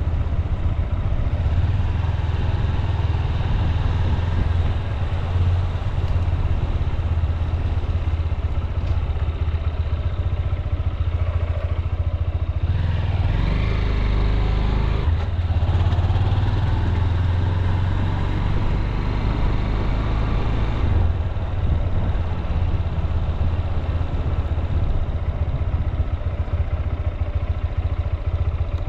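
Honda CB200X's single-cylinder engine running as the motorcycle rides along at low speed. About halfway through, the sound swells and broadens for several seconds, with a brief rise in pitch, then settles back to a steady run.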